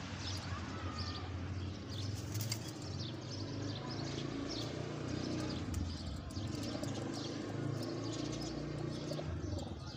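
Domestic pigeons cooing, with wing flaps and short chirps and clicks.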